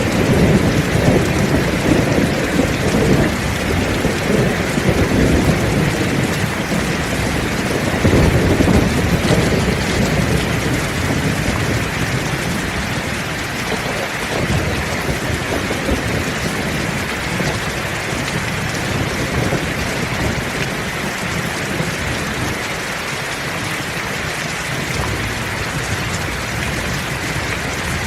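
Heavy rain falling steadily, with thunder rumbling through the first half, swelling again about eight seconds in, then dying away to leave only the rain.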